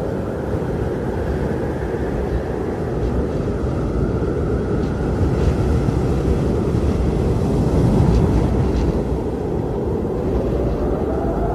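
Blizzard wind blowing in a steady low rush that swells to its loudest around the middle. Near the end a whistling tone rises in pitch.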